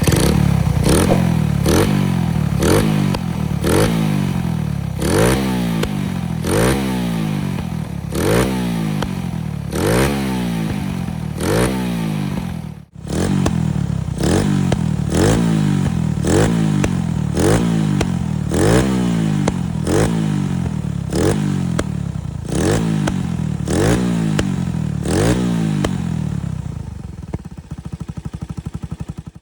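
Suzuki Belang R150's single-cylinder four-stroke engine, breathing through a CJ Ipoh aftermarket silencer, revved in quick throttle blips about once a second. Each blip rises in pitch and drops back. There is a brief break about thirteen seconds in, and near the end the engine settles back to idle.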